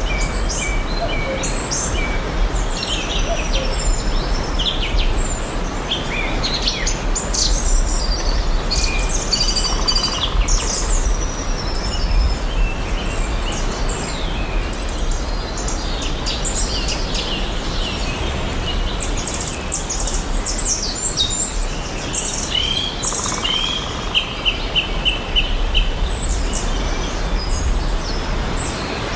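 Many wild birds singing and chirping at once, overlapping calls and trills, with a run of about six quick even notes a little over three-quarters of the way through. The birds sit over a steady hiss and a low rumble.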